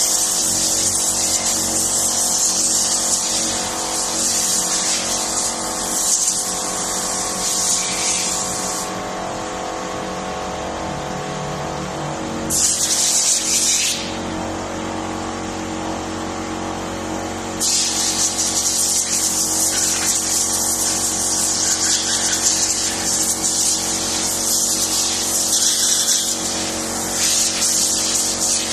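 A motor-driven cleaning machine running steadily, with the loud hiss of a high-pressure cleaning jet switching on and off as engine parts are cleaned: it stops about nine seconds in, bursts briefly near the middle and resumes about two-thirds of the way through.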